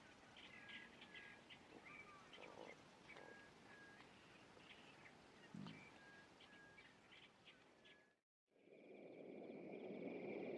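Faint chirping of small birds, short calls repeated every half-second or so, over a quiet outdoor background. About 8 seconds in it cuts to silence, then a low, steady noise slowly swells.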